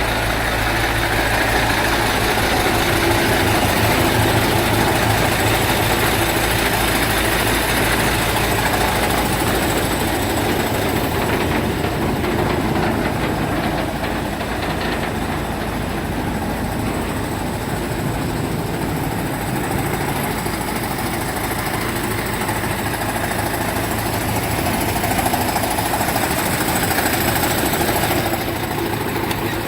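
Diesel engine of a MAN 16.192 4x4 tipper truck running steadily with a knocking diesel clatter.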